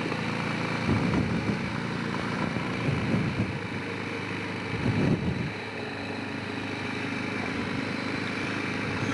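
Honda Rincon 650 ATV's single-cylinder four-stroke engine running at low speed on the move, with brief surges of throttle about one, three and five seconds in.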